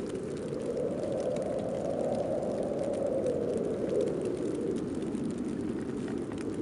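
Snowstorm wind blowing, a steady low rush that swells a little about halfway through and eases again.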